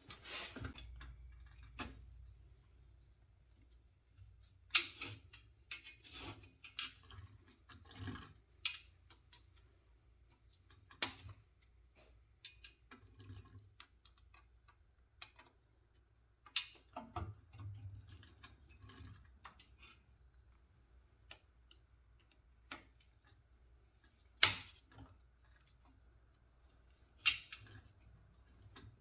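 Irregular clicks, clinks and knocks of hand tools and small metal hardware being picked up and handled, with a few sharper knocks, the loudest about three quarters of the way through.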